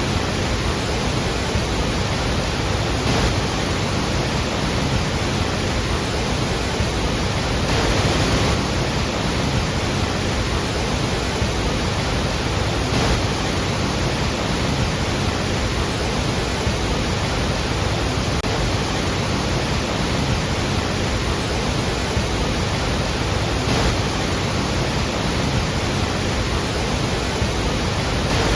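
Iguazu Falls: a dense, steady rush of heavily falling water, with no breaks or distinct events.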